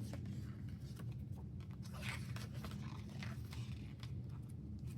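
Faint crackling and rustling of album packaging and photocards being handled, in a few soft bursts around the middle, over a low steady hum.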